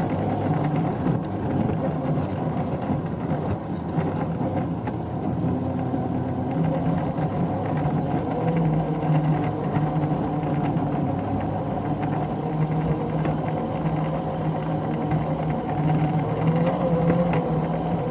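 An engine running steadily, a low even hum that holds its pitch.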